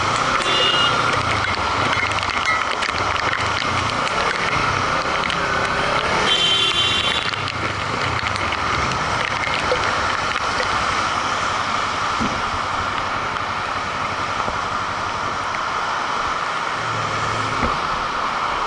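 Heavy rain pouring down steadily in an even hiss. About six seconds in, a brief high squeal-like tone sounds over it.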